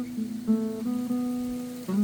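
Steel-string acoustic guitar played in single picked notes: one at the start, one about half a second in that rings on for over a second, and a new note just before the end.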